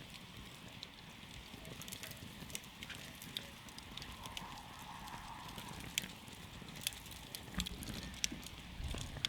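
Wood campfire crackling: scattered sharp pops and snaps over a steady hiss of burning, with a few louder pops in the second half.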